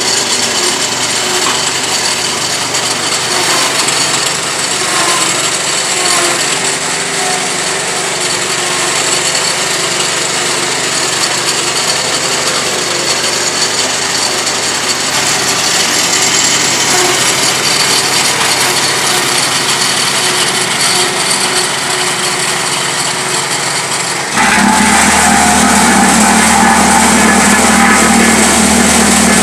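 Engine-driven road-repair machinery running with a steady, rough mechanical noise. About 24 seconds in the sound changes abruptly to a louder, steady engine run with a deep hum.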